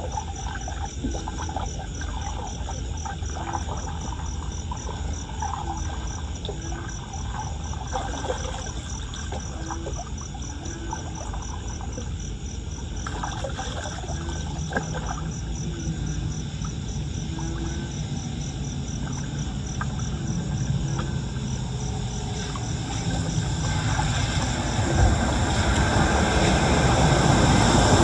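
An insect chirps steadily in a high, regular pulse about three times a second over a constant wash of running floodwater. A broad rumble, like an approaching vehicle, swells near the end.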